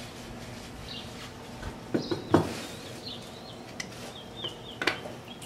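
Faint birds chirping in the background, with a few sharp clicks about two seconds in, again just after, and once near the end.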